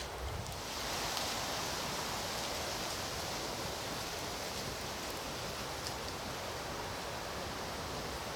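Campfire of freshly stoked hardwood logs burning with a steady hiss that sets in about a second in, with a faint tick now and then.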